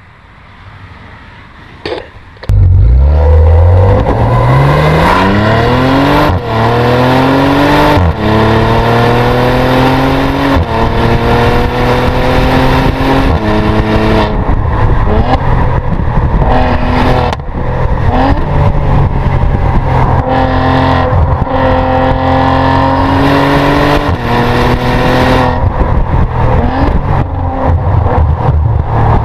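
Maserati Levante GranSport SQ4's twin-turbo V6 comes in loudly about two and a half seconds in after a click, then accelerates hard. Its pitch climbs and drops back at each upshift of the automatic gearbox, several times over.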